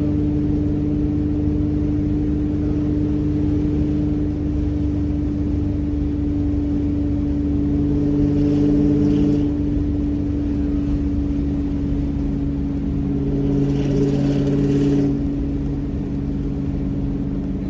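Pickup truck running with a steady droning hum and low rumble, swelling briefly twice with added hiss, about halfway through and again about three quarters of the way in.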